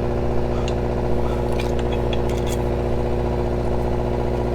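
Steady drone of an engine running, with a few light metallic clicks and clinks about one and a half to two and a half seconds in.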